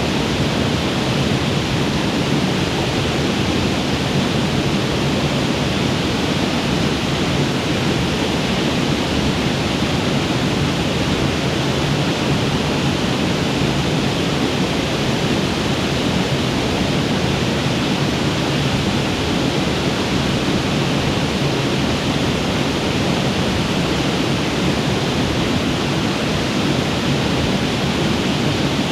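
Waterfall on a mountain creek pouring steadily, a loud, even rush of water with no change.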